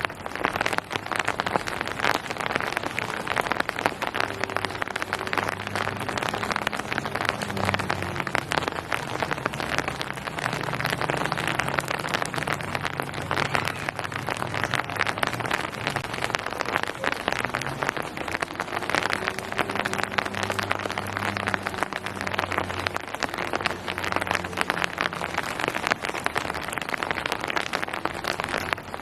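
Steady rain falling on hard surfaces, a dense stream of close drop hits. A faint low hum comes in twice underneath the rain.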